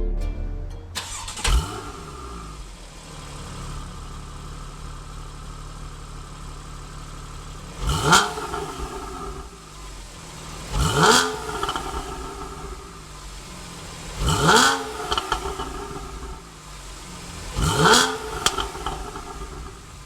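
Porsche 991 Carrera's flat-six engine idling through an AWE aftermarket exhaust, given a short blip early on and then revved four times, each time rising quickly and falling back to idle.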